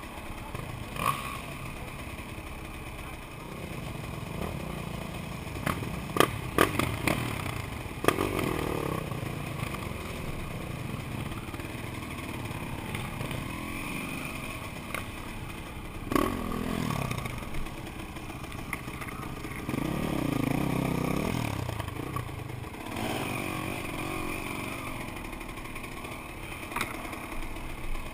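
Enduro motorcycle engines running on a muddy forest trail, the rider's own bike revving up and down through the gears, with a few sharp knocks and rattles in the first third and again about halfway.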